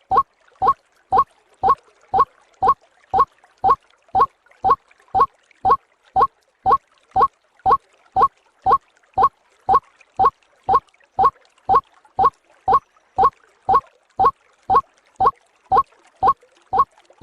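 White-breasted waterhen (ruak-ruak) calls played as a bird-trapping lure: a short, slightly rising note repeated evenly, about twice a second.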